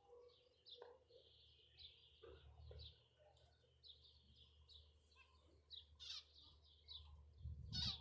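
Small birds chirping faintly, many short high chirps overlapping one another, with a low rumble coming up near the end.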